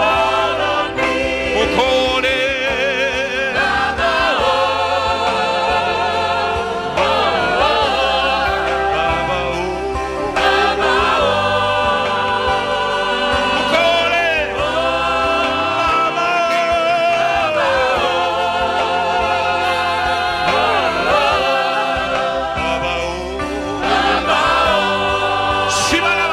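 Gospel worship music: a choir singing long, wavering notes over steady instrumental accompaniment.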